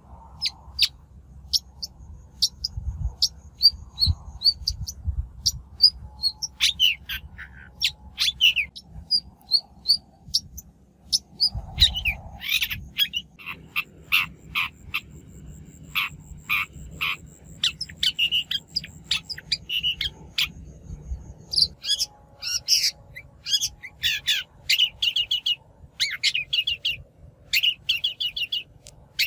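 Shrike (bách thanh) calling and singing: a long run of short, sharp, scratchy notes and chatters, coming faster and denser from about halfway through.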